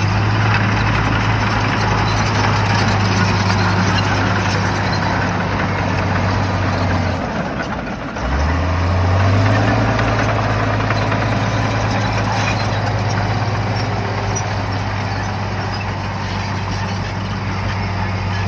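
Shantui bulldozer's diesel engine running hard with a steady drone; about seven seconds in it drops away for a moment, then climbs back up in pitch and runs on.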